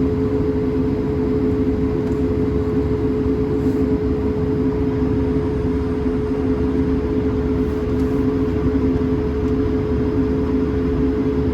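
Airbus A220-300's Pratt & Whitney PW1500G geared turbofans running, heard inside the passenger cabin as a steady drone with two steady humming tones underneath.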